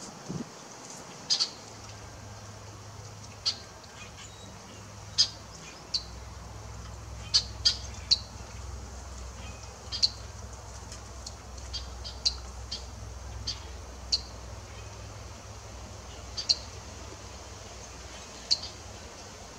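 Short, sharp bird chip calls, about twenty at irregular intervals, over a faint low steady hum.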